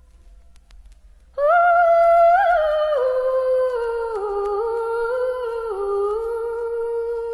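A single voice humming a slow, wordless melody. It comes in about a second and a half in and holds long notes that step downward in pitch.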